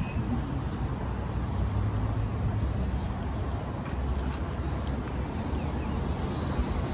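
Steady low rumble of road traffic and vehicle noise, with a few faint ticks.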